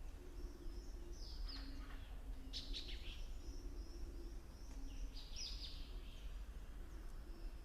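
Songbird chirping: short, high, falling chirp phrases come about three times, over a steady low background rumble.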